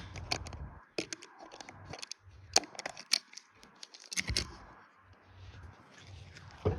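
Irregular sharp clicks and light knocks, several a second at times, with a louder knock near the end.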